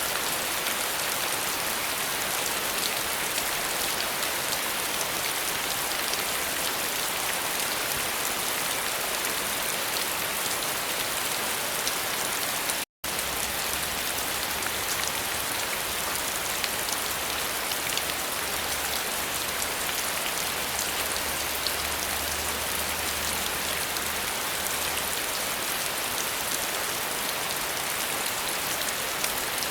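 Steady rain falling, an even hiss with scattered ticks of single drops. The sound cuts out completely for a split second about thirteen seconds in.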